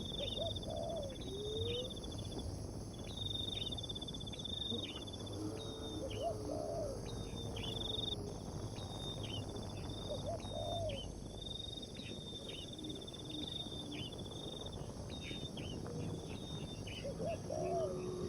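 Outdoor animal sounds: repeated high trills, each about a second long, with scattered lower chirping calls between them over steady background noise.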